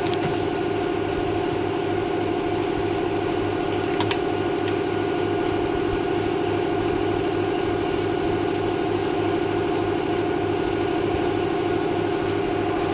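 Steady mechanical drone with a regular low throb of about two to three pulses a second, from a machine running nearby. A light click sounds about four seconds in.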